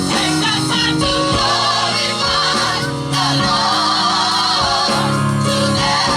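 Live gospel music: a vocal group singing with wavering, held notes over instrumental accompaniment including guitar.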